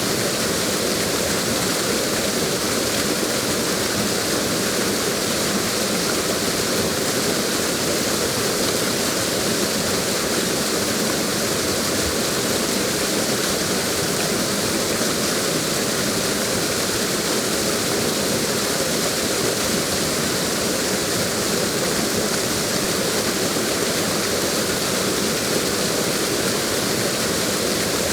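Waterfall rushing steadily, an even, unbroken water noise.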